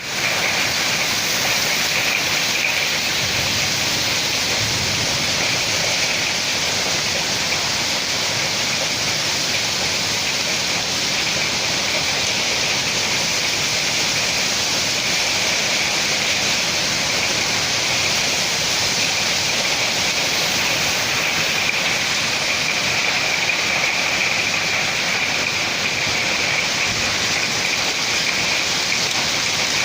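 Heavy rain and wind in a severe storm, making a loud, steady roar with no breaks.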